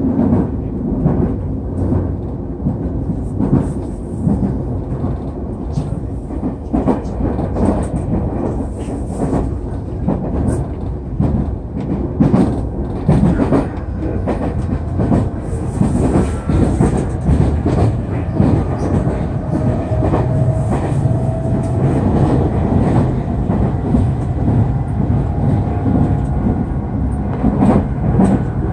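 Nankai Airport Line electric train running at speed, heard from inside the carriage: a steady rumble of wheels on rail with repeated clacks over rail joints. In the second half a faint whine slowly rises in pitch.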